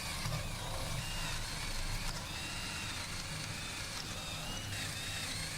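Power drill running steadily, its faint whine rising and falling about once a second while drilling 1/4-inch holes through plywood.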